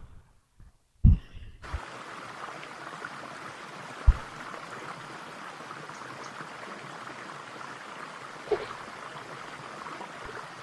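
Pond waterfall running with a steady rush of falling water, which cuts in about a second and a half in. A few low thumps on the microphone, the loudest about a second in.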